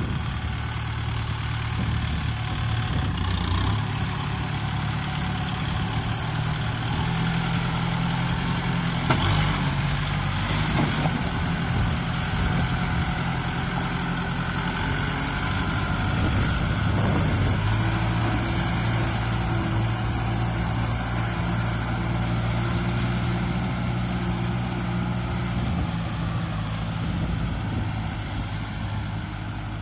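Kubota M6040SU tractor's diesel engine running steadily under load. Its note shifts to a new pitch a few times as the revs change.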